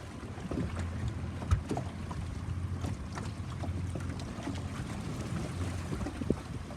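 Boat engine running steadily with wind on the microphone. Two sharp knocks, about a second and a half in and near the end.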